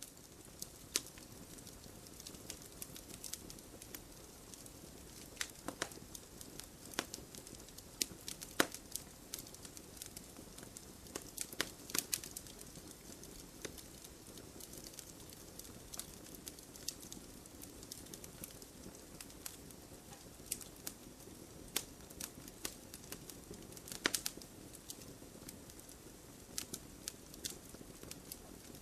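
Wood bonfire crackling: irregular sharp pops and snaps over a steady soft rush of the burning fire.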